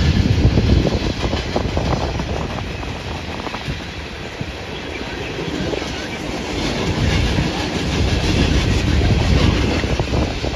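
Freight train's hopper cars rolling past, a steady rumble of steel wheels on rail with wheels clicking over rail joints, louder near the start and again near the end.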